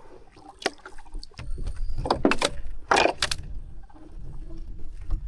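Water splashing in a few sharp strokes as a hooked small wild carp is brought in at the surface, the strongest splashes about two and three seconds in, over a low rumble of water and handling.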